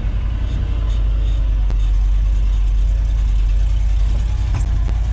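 1973 Ford F-250's 360 V8 lugging at low revs under load in granny-low gear, a low steady drone that neither rises nor falls.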